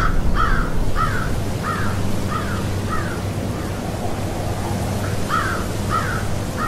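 Corvids cawing: a rapid series of short harsh calls, about one every half second, breaking off about halfway through and starting again with three more calls near the end.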